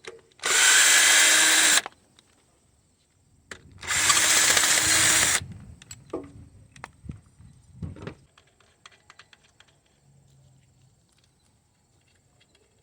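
Cordless power driver spinning out 10mm bolts on the engine in two steady runs, the first about half a second in and the second about three and a half seconds in. A few light knocks and small metal clicks follow as the bolts and socket are handled.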